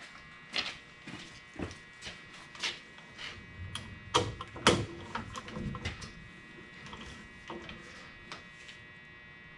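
Hand tools clicking and knocking on metal while working the differential's bearing caps and adjusters: scattered sharp clicks, about one a second at first, then a closer cluster around the middle.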